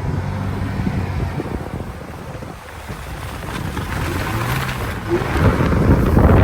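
A motor vehicle's engine running, with wind buffeting the microphone. A loud rough rush builds up over the last few seconds.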